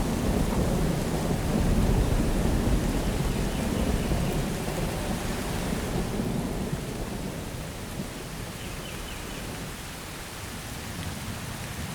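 Thunder rumbling over steady rain; the rumble is strong at first and dies away through the second half, leaving the hiss of rain.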